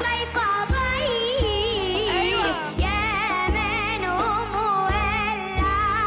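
A young girl singing an Arabic song with ornamented runs and wide vibrato, backed by a band with a regular deep bass beat.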